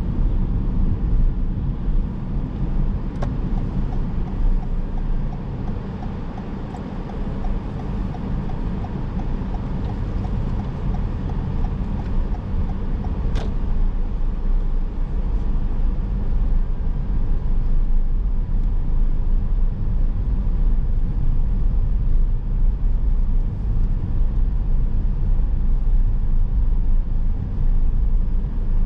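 Car driving through town streets: a steady low rumble of engine and tyres on the road, easing off a little and then building again in the second half. A faint regular ticking runs for about ten seconds in the first half, with a couple of sharp clicks.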